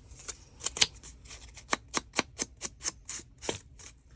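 Scissors snipping through paper in a quick run of sharp snips, about three or four a second.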